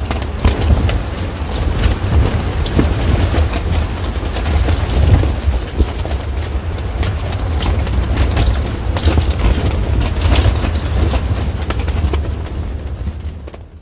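Strong gusting wind rumbling heavily over the microphone, with rapid rattling and flapping of the folding trailer tent in the gale. It fades out near the end.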